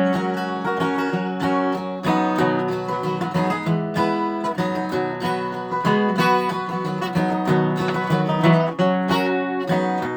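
Acoustic guitar strummed and picked, playing a country-style instrumental introduction to a song.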